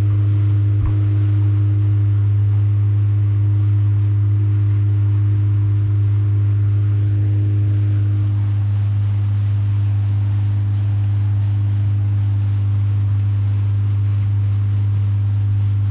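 Motorboat engine running at a steady cruising throttle: an unchanging low drone with a fainter steady hum above it.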